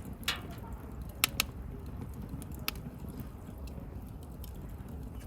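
Wood campfire burning with a steady low rumble and sharp crackles from the burning wood, the loudest a quick pair of pops a little over a second in.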